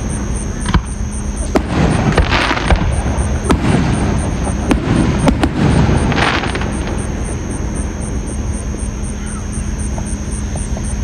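Fireworks going off: a series of sharp bangs and crackling bursts over the first seven seconds or so, then only a steady low rumble.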